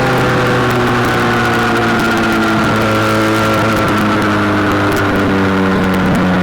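SBM 400 motorcycle engine running on the move, holding a steady pitch for stretches that steps down a few times.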